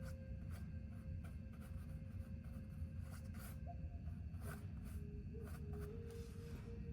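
Painting strokes scratching across the painting surface, a string of short irregular strokes over a steady low hum.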